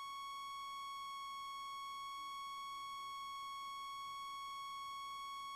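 A steady, unchanging electronic tone, high-pitched with a buzzy edge, held at one pitch and level with nothing else audible under it.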